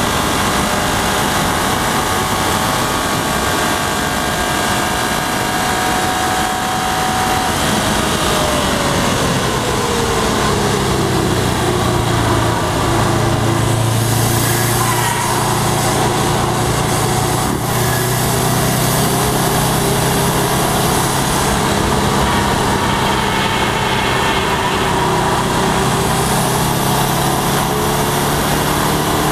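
2011 Subaru WRX's turbocharged flat-four engine running on a track lap: its pitch falls smoothly about eight seconds in as the car slows for a corner, holds low for a while, then climbs again near the end as the car accelerates.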